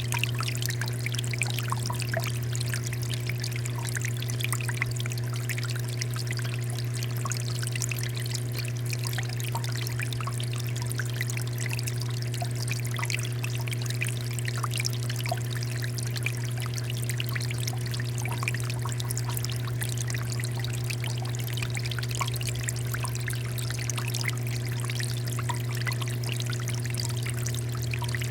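Water fountain flowing steadily, water pouring and splashing into a basin with many small droplet splashes, over a steady low hum.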